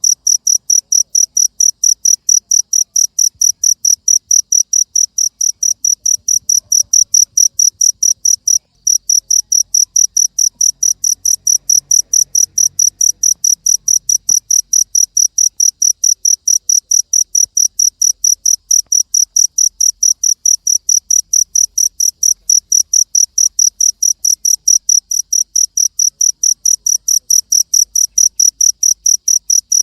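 Cricket chirping in a fast, even rhythm of about four short high-pitched chirps a second, each pulse the same loudness. The chirping breaks off for a moment about nine seconds in, then carries on.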